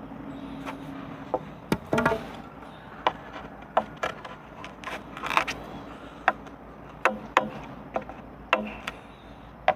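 Irregular sharp knocks of a hand tool striking wood, about twenty uneven strikes, the loudest close together about two seconds in.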